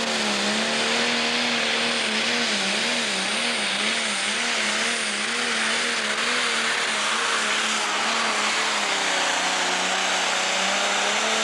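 Pro Stock pulling tractor's diesel engine running flat out under full load on a pull, a loud steady strain whose pitch wavers up and down, with a faint high whistle above it. It stops suddenly at the very end.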